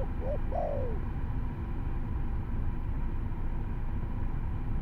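An albino spotted dove cooing: the last notes of its call in the first second, over a steady low rumble that runs on after the call ends.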